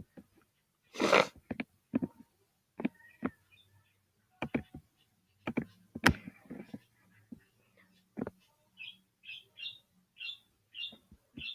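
Short high chirps, like a small bird's, repeating about twice a second through the second half, amid scattered light clicks and taps. A loud breathy burst comes about a second in.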